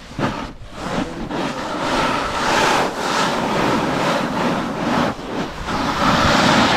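Snowboard edge scraping and sliding over slushy snow, with wind rushing over the microphone, the noise swelling and easing as the board moves.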